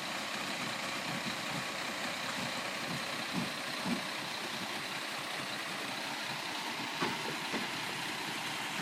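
Diesel engines of cement mixer trucks running steadily, with a few short knocks over the top: two midway and two near the end.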